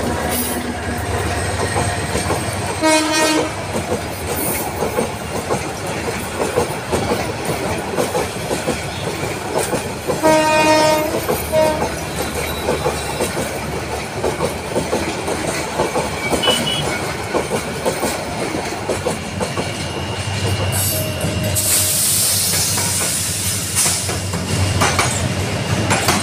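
Passenger train running past close by, with a steady rumble and clickety-clack of wheels over the rail joints. A train horn sounds twice: a short blast about three seconds in and a longer one about ten seconds in. Late on there is a burst of hissing.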